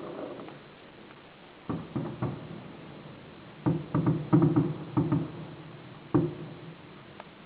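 Fireworks exploding: a string of sharp bangs, a few at first, then a quick cluster in the middle and one last bang about six seconds in, each with a short booming ring.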